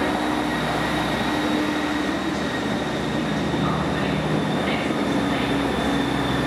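GWR Intercity Express Train moving slowly past along a platform: a steady engine hum with a thin high whine over it and continuous rolling noise.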